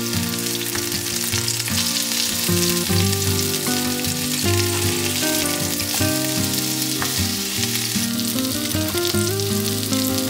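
Food frying in a pan, a steady sizzling hiss, with background music playing.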